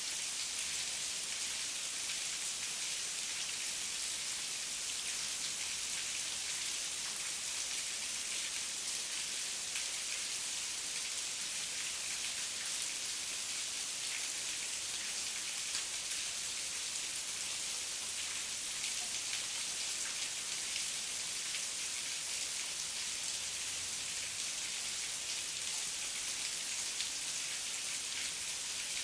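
Heavy rain falling steadily, a dense hiss of drops with fine pattering, unchanging throughout.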